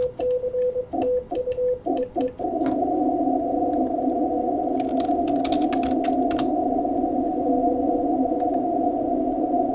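Morse code sent on a ham radio transceiver: a steady sidetone keyed on and off, with key clicks and short bursts of receiver hiss between the dots and dashes. About two and a half seconds in, the keying stops and the receiver's band noise runs on as a steady narrow hiss, with a few scattered clicks.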